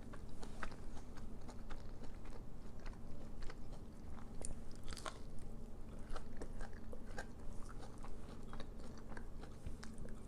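Close-miked chewing of crispy oven-baked onion rings, with many small, irregular crunches.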